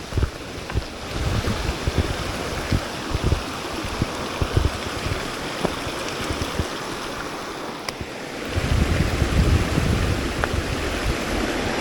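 Steady rush of a creek's flowing water, with wind buffeting the microphone in low gusts that get stronger near the end.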